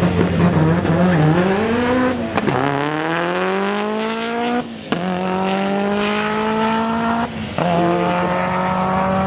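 Car engine launching down a drag strip at full throttle. After a low, wavering hold on the line, the pitch climbs steadily from about two and a half seconds in, with two brief breaks for upshifts about two and a half seconds apart, each followed by a fresh climb.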